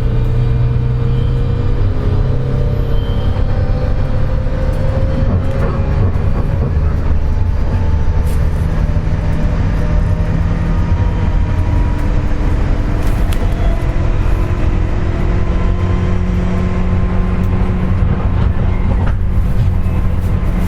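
JR West 201 series electric train running slowly, heard from inside the motor car: a steady heavy rumble of wheels on rail, with whining tones that rise slowly. The whine is the jet-like sound of traction-motor bearings damaged by electrical erosion.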